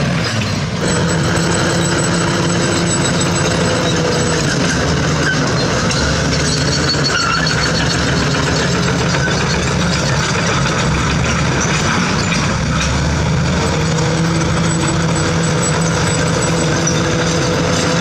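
Heavy diesel construction machinery running steadily under load, its engine note shifting as it works.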